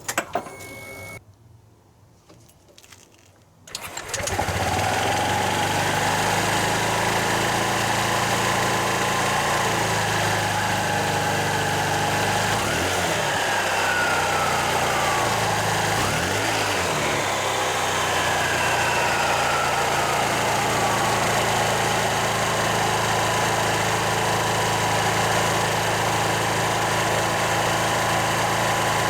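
Honda PCX JF56 scooter's single-cylinder engine starting about four seconds in, after a few clicks, then idling steadily.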